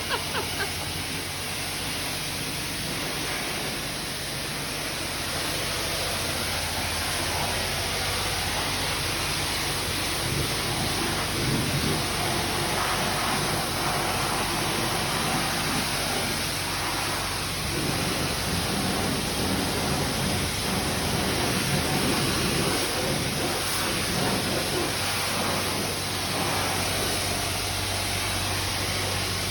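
High-pressure rinse water from a self-serve car wash spray wand hitting a van's body, a steady hiss like heavy rain, with a steady low hum underneath.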